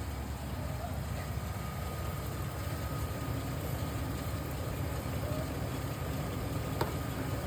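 Steady low rumble like a running vehicle, with a single sharp click about seven seconds in.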